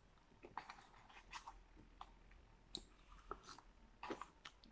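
Faint mouth sounds of someone chewing French fries: soft, irregular clicks and smacks over near silence.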